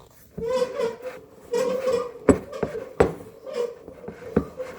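A spoon stirring stiff, shaggy sourdough dough in a mixing bowl, scraping around the bowl in repeated strokes about once a second, with three sharp knocks of the spoon against the bowl.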